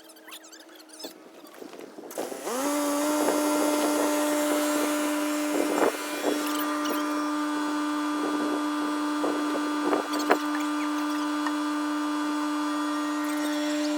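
A motor spinning up quickly about two seconds in and then running at a steady, even whine, with a few short knocks over it.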